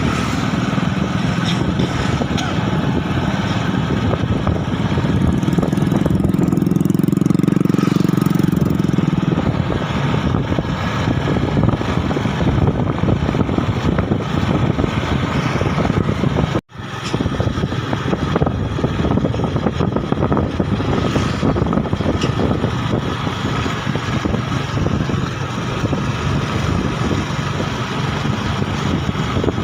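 Motorbike engine running while riding, mixed with wind and road noise on the microphone; the engine note is stronger for a few seconds about a fifth of the way in. All sound drops out for an instant a little past halfway.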